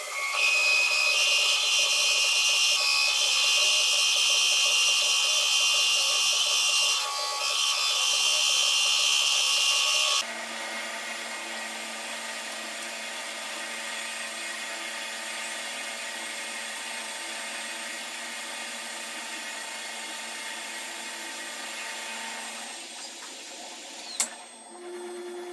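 A power tool running steadily with a high, hissing whine. About ten seconds in it switches suddenly to a quieter, lower running sound that dies away near the end, followed by a single click.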